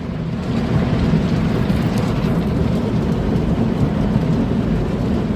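Automatic car wash spraying water onto a car, heard from inside the cabin: a steady, heavy drumming of water on the body and windows.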